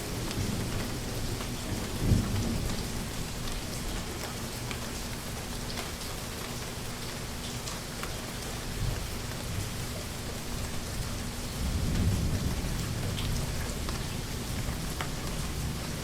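Steady rain falling, with fine drop ticks, and distant thunder rumbling low twice, a short swell about two seconds in and a longer roll around twelve seconds in.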